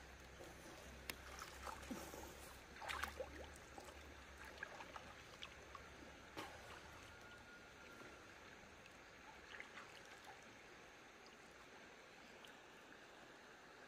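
Faint steady rush of flowing water, with scattered small taps and splashes.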